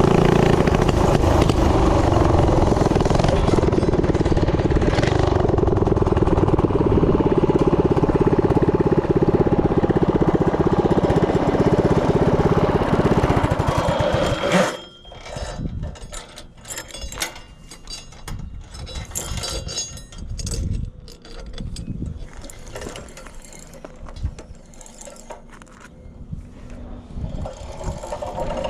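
Tillotson 212 single-cylinder engine on a Coleman CT100U mini bike running hard, then cutting off abruptly about halfway through. Scattered knocks and wind on the microphone follow.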